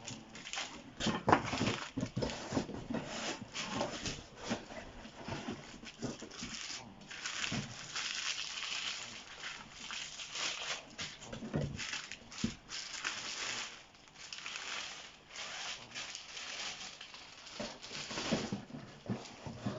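Cardboard box and plastic packaging being handled: repeated rustling, crinkling and knocks as a soundbar is lifted out of its box and the box is moved aside.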